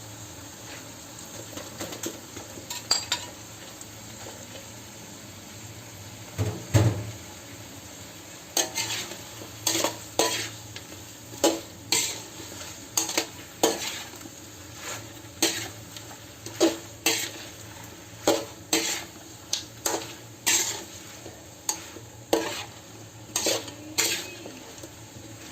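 Stir-frying chicken and pineapple in a pan over a steady low sizzle. A utensil scrapes and clanks against the pan, with one loud knock about seven seconds in, then regular strokes roughly once or twice a second.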